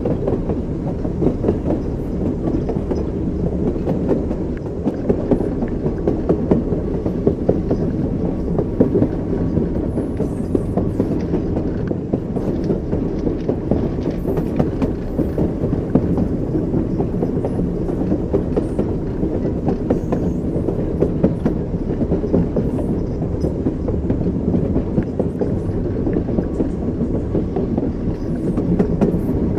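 Train wheels clattering on the rails, with a continuous rumble of a moving train at steady speed.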